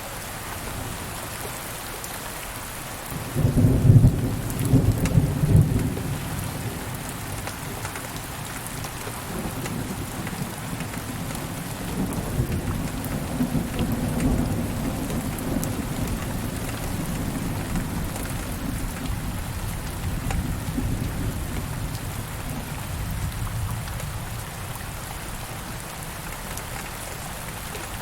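Steady rain with a thunderclap about three seconds in, loud crashes over two or three seconds, followed by a long, low roll of thunder that rumbles on and fades.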